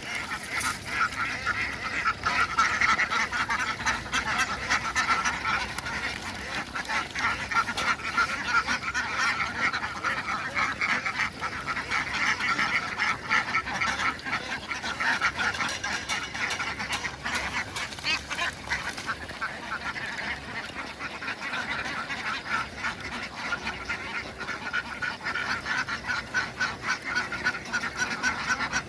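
A large flock of ducks quacking continuously, many calls overlapping into a steady din.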